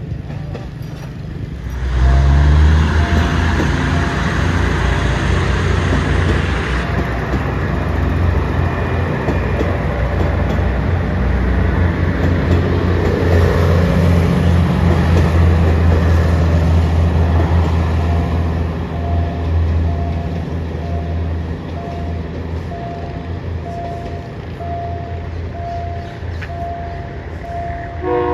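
Diesel multiple-unit train passing close through a level crossing: a deep engine rumble with wheel and rail noise starts suddenly about two seconds in and eases off in the second half. A level-crossing warning signal beeps steadily at one pitch, and a train horn sounds briefly at the very end.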